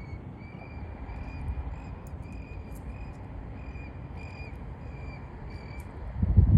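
A bird calling a short high note over and over, about two calls a second. Under it runs a low rumble, and there are a few loud thumps near the end.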